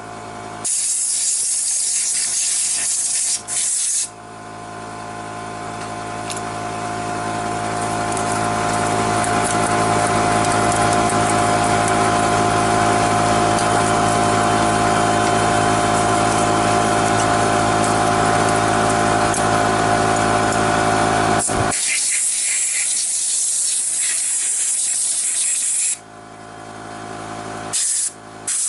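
Short bursts of pressurised spray hissing, then a steady motor-driven machine hum with a strong whine. The hum builds over several seconds, holds, and cuts off sharply, after which the spray bursts return.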